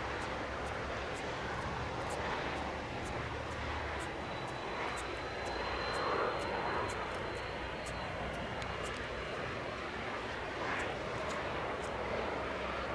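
Jet airliner engines running steadily, a continuous rumble and hiss. A faint high whine comes in about four seconds in and fades out about halfway through.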